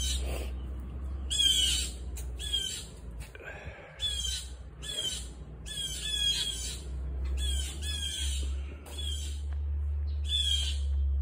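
Birds squawking outside: short, harsh, falling calls repeated every half second or so, often in quick runs of two or three. A steady low hum runs underneath.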